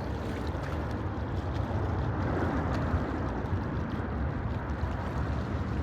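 Steady low rumble of distant jet airliner engines, mixed with wind on the microphone.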